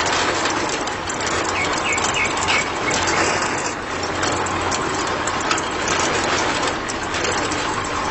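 A small machine running steadily with a low hum and dense clicking and rattling, with a few short high squeaks about two seconds in.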